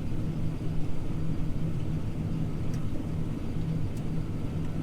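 Steady engine drone of a John Deere T670i combine heard from inside its cab, a low rumble with a constant hum, and two faint clicks.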